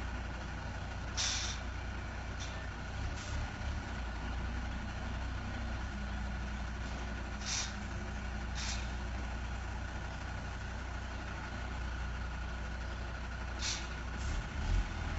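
Heavy truck's diesel engine running low and steady, with several short hisses of air from its air brakes, the strongest about a second in, twice near the middle and once near the end.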